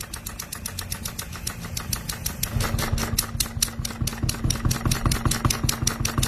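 Handmade miniature steam engine running, with rapid, even strokes, about eight a second, over a steady low hum.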